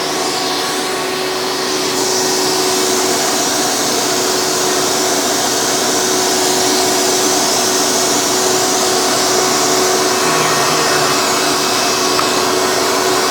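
Hoover Legacy Dirt Finder U5103-930 upright vacuum's 7.2-amp direct-air motor running steadily in tool mode, with a steady hum and air rushing through the on-board hose and attachment. The airflow grows a little louder about two seconds in.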